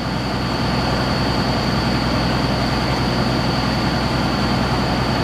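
Water well drilling rig running steadily: an engine's low drone with a constant high-pitched whine over it.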